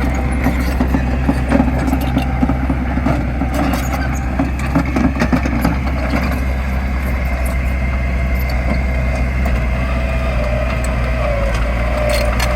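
Heavy diesel construction machinery running steadily, a deep engine hum with a wavering whine over it and scattered clicks and knocks.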